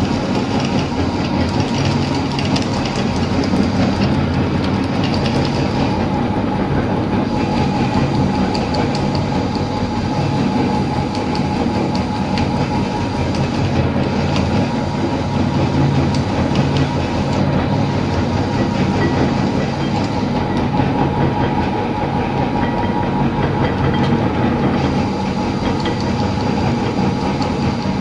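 Electric meat grinder running steadily with a constant motor hum, grinding ice cream.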